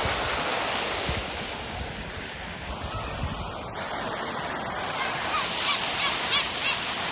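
Water fountain splashing and pouring in a steady rush, with faint voices in the last couple of seconds.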